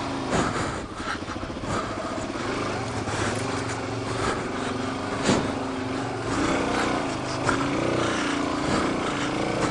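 Suzuki DR-Z400 dual-sport motorcycle's single-cylinder four-stroke engine running at low revs while picking through rocks, the revs rising and falling slightly in the second half. A sharp knock sounds about five seconds in.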